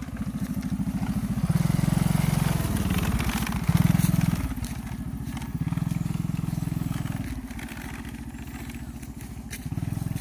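Small motorcycle engine running under way, its throttle opened and eased off several times so that the engine note rises and falls in stretches.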